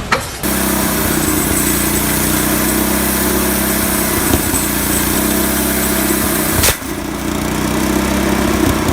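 Small two-stroke chainsaw engine running steadily. It cuts off abruptly about two-thirds of the way through and picks up again straight away.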